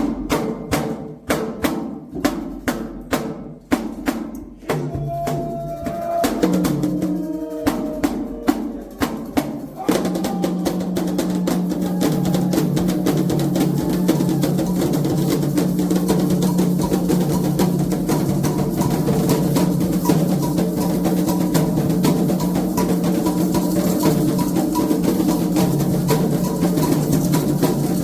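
Candomblé atabaque drums playing a toque for Oxalá. There are separate sharp strikes for the first several seconds, then from about ten seconds in a dense, continuous rhythm.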